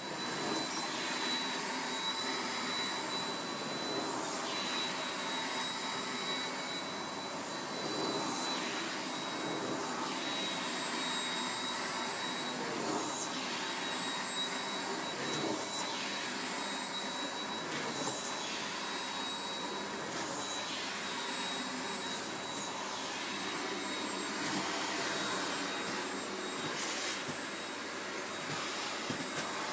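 Vacuum cleaner running steadily, its motor giving a high whine over the rush of air, with short bumps every couple of seconds.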